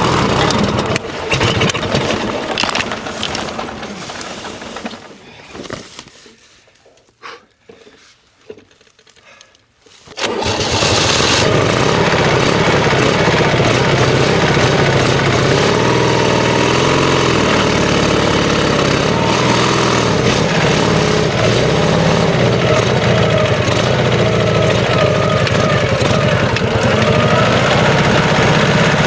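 Old sidecar motorcycle's engine running, then dying away over the first few seconds. After a few seconds of near quiet with a few small clicks, it starts again suddenly about ten seconds in and runs steadily.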